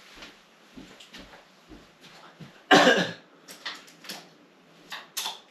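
A person coughing once, loudly, a little before halfway through, followed by a few softer short sounds.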